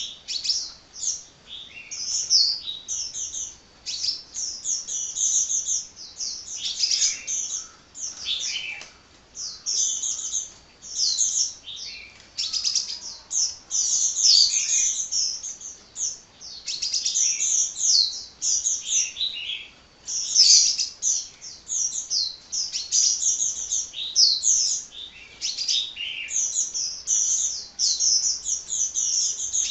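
Sunbird (Indonesian 'kolibri') singing a long, rapid run of high chirps and twitters with only brief pauses.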